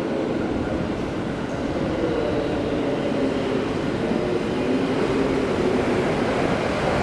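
A train running on the line, a steady rumble with a few held tones that drift slightly in pitch.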